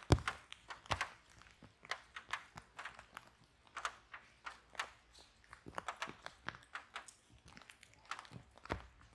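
Wood fire crackling in a fireplace: irregular sharp pops and snaps, several a second, with one louder pop and low thump just after the start.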